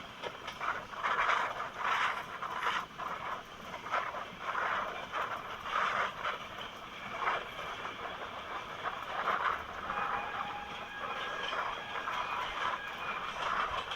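Passenger train running on the rails, its wheels clattering over the track in repeated bursts over a steady running noise.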